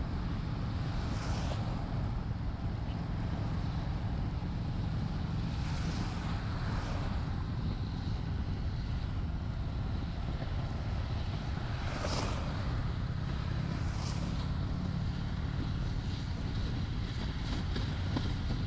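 Honda Shadow 750's V-twin engine running steadily while riding, under wind and road hiss, with a few brief swells of hiss.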